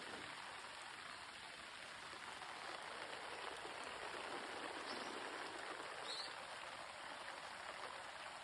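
Steady rain falling, an even hiss. A bird gives two brief high chirps near the middle.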